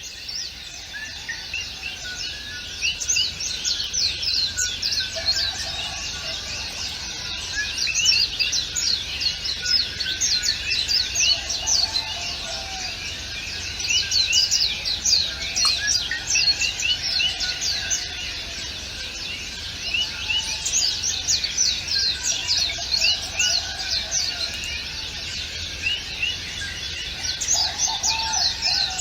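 A chorus of many small birds singing, a dense stream of quick, high, downward-sweeping chirps that swells and eases in waves.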